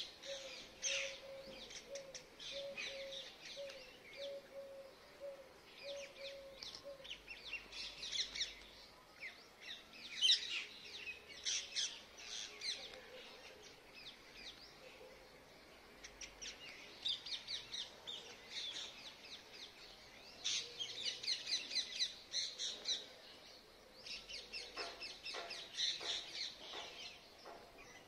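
Birds chirping and calling in clusters of short, high notes. Through the first seven seconds a steady run of low repeated notes sounds at an even pitch.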